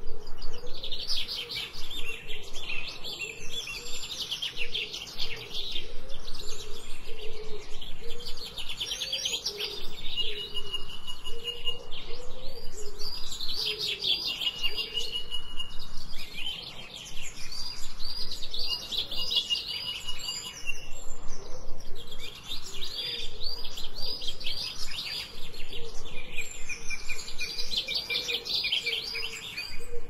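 Songbirds chirping in fast, overlapping trills that swell and fade every few seconds, with a thin held whistle now and then.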